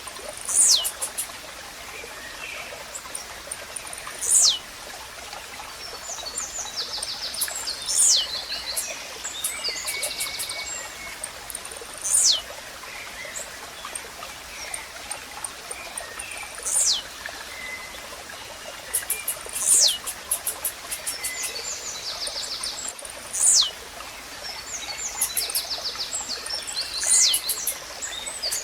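Blue-black grassquit repeating its short, sharp song, a quick downward-sweeping note, about every three to four seconds, eight times. Other birds add high rapid trills and buzzy notes over a steady running-water background.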